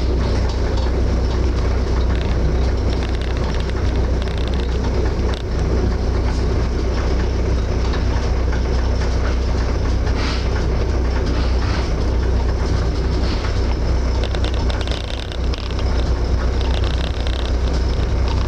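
Steady low rumble of a moving passenger train heard from inside an open-plan sleeper carriage: the car's wheels running on the rails.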